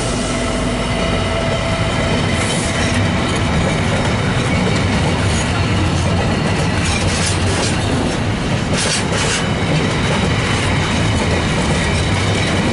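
Freight train rolling past at close range: a steady heavy rumble of wagons, with a few sharp clacks as wheels cross rail joints.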